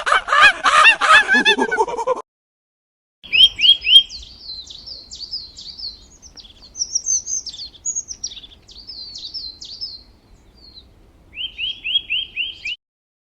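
A pitched animal call with many harmonics breaks off about two seconds in. After a short gap a small bird chirps: quick, high, falling notes in bursts, with a run of five chirps near the end.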